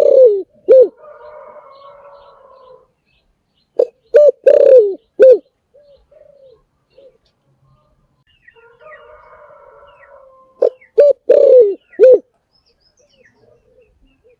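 Spotted dove cooing: three phrases of loud coos, at the start, about four seconds in and about eleven seconds in, with a quieter rolling purr between phrases.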